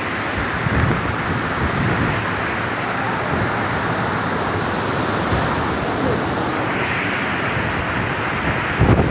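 Cyclone winds blowing in a steady, loud rush, with gusts rumbling against the microphone; the rush grows brighter about seven seconds in, and a strong gust buffets the microphone near the end.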